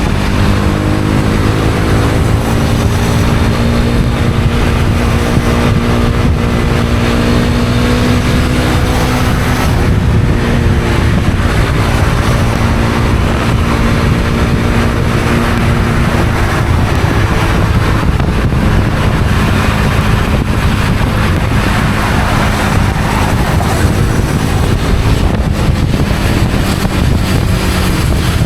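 Honda CB250R's single-cylinder engine running while riding, its pitch rising gently for the first several seconds and then holding steady, over constant wind rush on the microphone.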